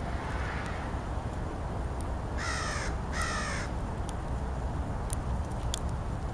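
American crow cawing twice in quick succession, two harsh calls about two and a half seconds in, over a steady low background rumble.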